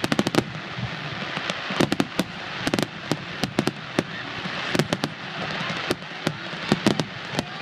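Aerial firework shells bursting: many sharp cracks in quick, irregular succession over a continuous hiss.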